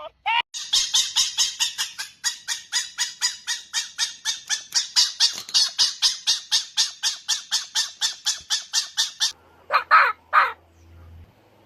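A fox giving a long, even run of short, high calls, about five a second, lasting some nine seconds. Near the end, after a brief pause, come two lower, harsher calls about half a second apart.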